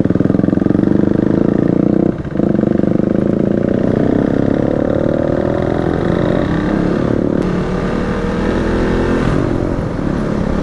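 Motorcycle engine running under way, with a brief drop in sound about two seconds in, then its pitch rising steadily for a few seconds as it accelerates before levelling off.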